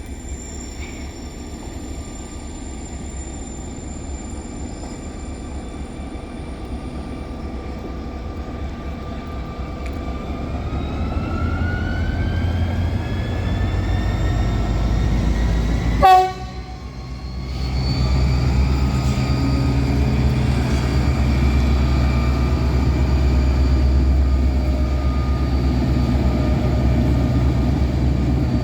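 Two coupled Railcare TMZ diesel locomotives approaching and passing, their engine rumble growing louder and the engine note rising about ten seconds in. About sixteen seconds in there is a sudden, short, very loud blast with a fast-falling pitch as the lead locomotive passes. After it comes a loud, steady low engine drone from the passing locomotives.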